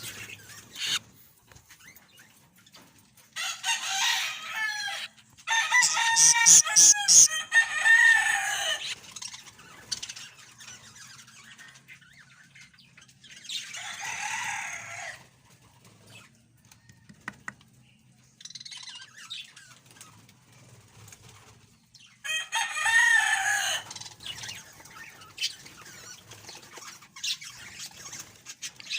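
Budgerigar chicks calling from the nest in loud bursts of repeated chirping cries that bend in pitch. Bursts come about 3 to 9 seconds in, a raspier one near the middle and another a little past two-thirds of the way, with quieter stretches between.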